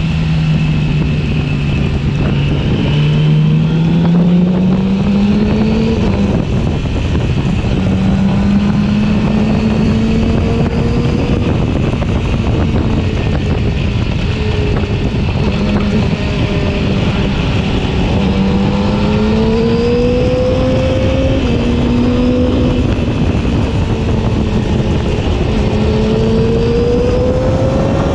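Yamaha R6's inline-four engine running on the move, its pitch rising and falling several times as the throttle is opened and eased off, over a steady rush of wind.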